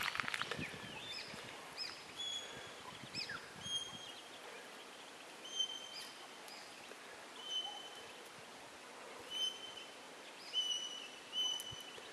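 Muscovy ducklings peeping: a few short falling peeps, then a string of brief level high peeps every second or two.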